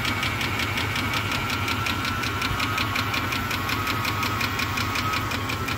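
1977 Jeep Cherokee Chief engine idling steadily with a rapid, regular ticking, about eight ticks a second, which the owner takes to come from under the valve cover.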